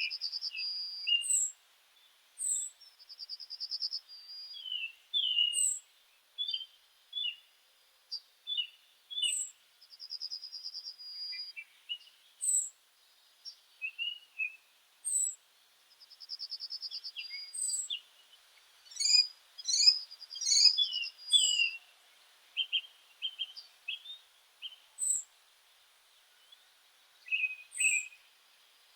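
Several songbirds singing and calling: a fast trill recurs every several seconds, with short chirps and thin high notes in between.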